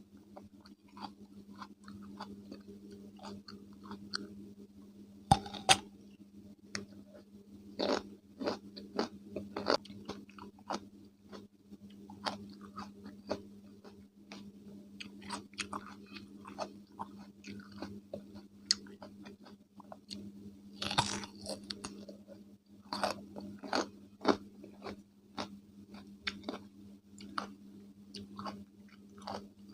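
Close-miked chewing of crunchy raw cucumber with mayonnaise: a run of crisp, wet crunches and bites, the loudest a pair of sharp bites about five and a half seconds in and a denser burst of crunching around twenty-one seconds.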